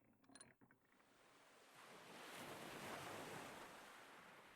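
One faint ocean wave swelling and washing out, rising about two seconds in and fading away near the end.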